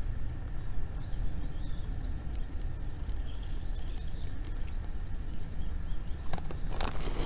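Wood bonfire crackling with scattered sharp snaps, over a steady low rumble of wind on the microphone; near the end a burst of crinkling, rustling noise.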